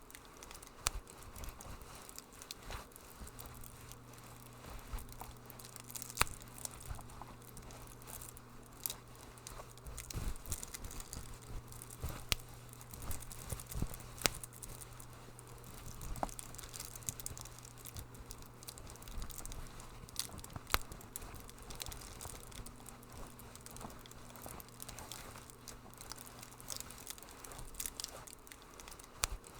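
Wood fire crackling: irregular sharp pops and snaps over a soft hiss, with a faint steady low hum underneath.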